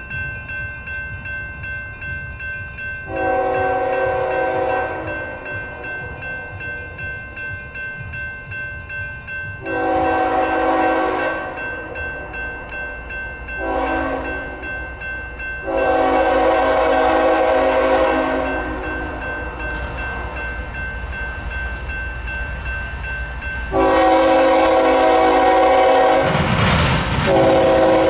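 Diesel freight locomotive horn sounding the grade-crossing signal: two long blasts, a short one, then a long one held as the train arrives. A low rumble of the train runs underneath, and the locomotives' passing rumble swells near the end.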